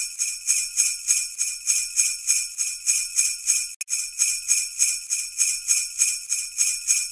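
Sleigh bells shaken in a quick, steady rhythm, with a brief break about halfway through.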